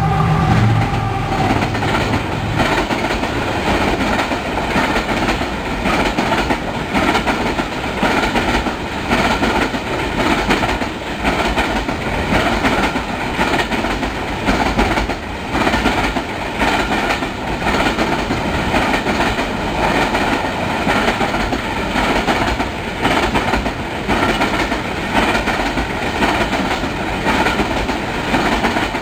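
Freight train's covered wagons rolling past close by: a steady rumble of wheels on rail, with repeated clattering clicks as the wheels cross the rail joints. The drone of the GEU-40 diesel locomotive fades out in the first second as it goes by.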